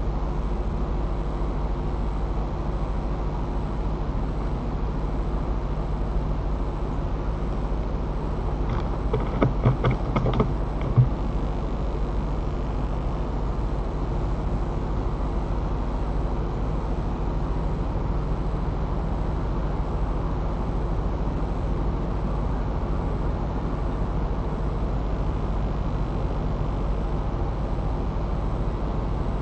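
Steady low wind rumble on the microphone of a treetop nest camera. About a third of the way in comes a brief run of creaks, the sound of the nest tree's branches rubbing as they sway.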